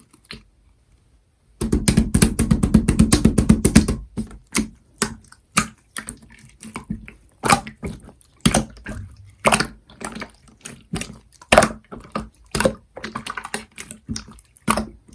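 Slime being squished and poked: after about a second and a half of quiet, a fast run of wet clicks as it is pressed rapidly, then separate sticky pops and squelches every half second or so.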